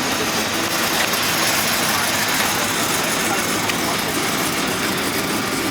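A car engine idling steadily under an even background hiss.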